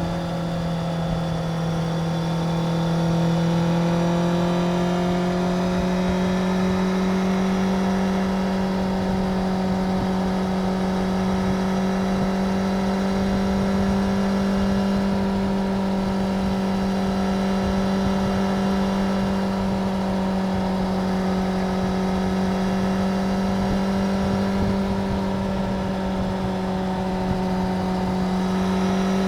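Stock Suzuki GSX-R750's inline-four engine running through its standard exhaust at a steady, fairly high engine speed. The pitch rises a little over the first few seconds, then holds nearly level.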